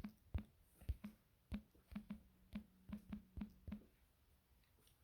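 A run of light clicks, about a dozen, unevenly spaced and stopping about a second before the end.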